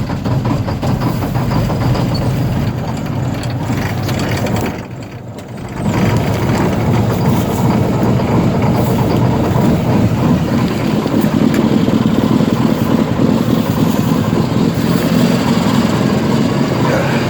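1995 Mack truck's diesel engine being cold-started at −18 °C. It cranks, goes briefly quieter about five seconds in, then catches and runs loudly and roughly. The owner suspects the block heater was not plugged in.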